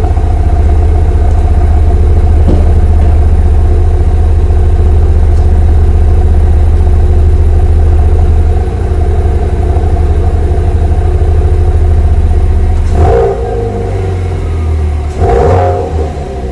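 Chevrolet Camaro LT RS exhaust idling with a steady low rumble, then two short throttle blips, about two seconds apart, near the end.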